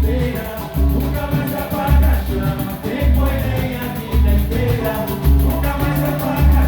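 Live samba played on acoustic guitar (violão), mandolin (bandolim) and hand percussion, with a deep drum beat about once a second under fast high ticking.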